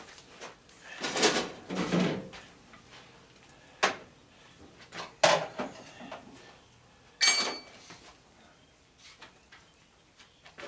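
Tools and metal items handled and set down on a workbench: a rattling, scraping stretch, then sharp knocks, and a ringing metal clank about seven seconds in.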